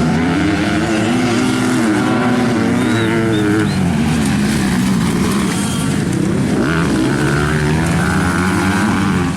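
Several motocross bikes' engines revving hard, pitch climbing and dropping again and again with gear changes and throttle as they race, overlapping one another.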